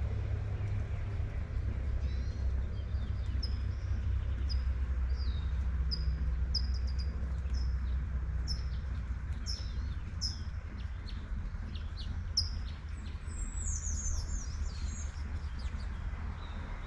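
A songbird singing short, high chirps about once a second, then a quick twittering run near the end, over a steady low rumble and the light hiss of rain.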